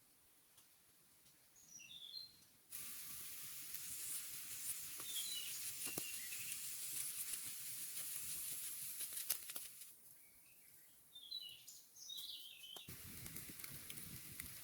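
Rainforest bird calls, short high chirps in a few groups, over a dense high hiss. The hiss cuts in suddenly about three seconds in, drops away around ten seconds and returns near the end, with a few faint clicks.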